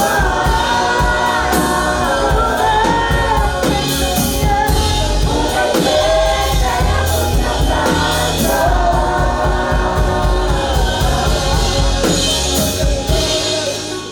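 Choir singing a gospel worship song with instrumental accompaniment, several voices in harmony over a steady beat, fading out at the very end.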